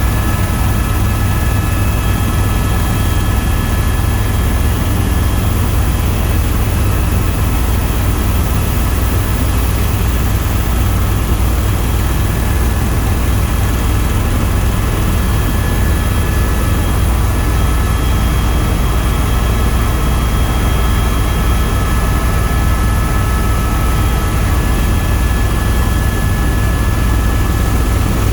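Tour helicopter's turbine engine and rotors running, heard from aboard: a steady loud low rumble with an even rushing noise and a constant high whine, unchanging throughout.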